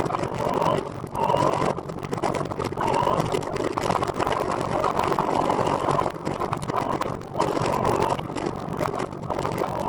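Wind rushing over the microphone and rolling noise from a recumbent trike being ridden, a dense steady noise that swells and dips about once a second.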